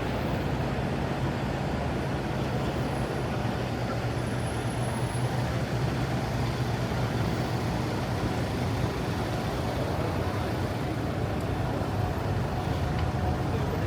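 City street traffic: a steady low engine rumble from a large vehicle such as a bus or lorry, under a constant hiss of road noise.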